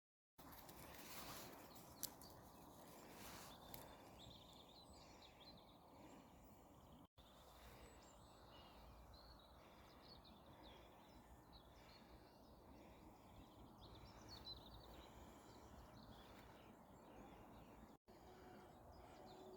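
Near silence: faint distant birds singing over a quiet hiss, with a single sharp click about two seconds in.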